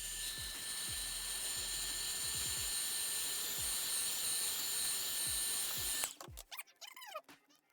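A small high-speed power tool motor runs with a steady high whine, then cuts off abruptly about six seconds in. Low rhythmic thumps of a background music beat run underneath.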